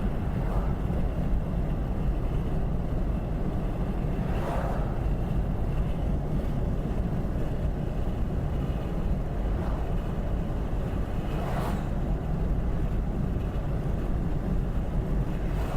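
Steady low rumble with wind buffeting the microphone, swelling briefly a couple of times.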